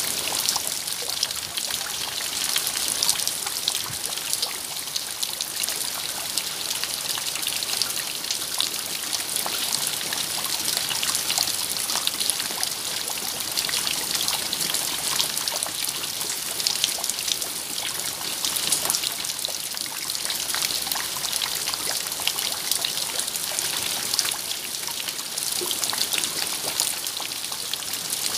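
Steady rain falling, with a dense patter of close drops and trickling water.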